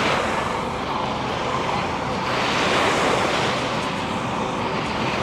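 Ocean surf breaking on a beach, a steady rushing wash that swells about every three seconds as waves come in.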